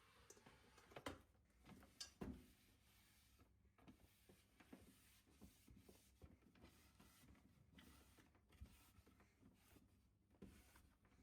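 Faint, scattered clicks and small knocks with some light rubbing, a few stronger knocks in the first couple of seconds: objects being handled quietly.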